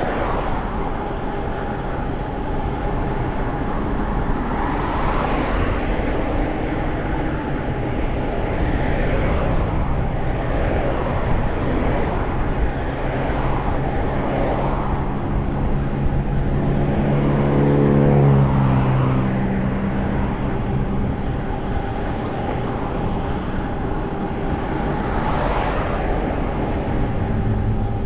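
Steady road and tyre noise from a vehicle driving on the road, with a deeper droning sound that swells and fades about two-thirds of the way through.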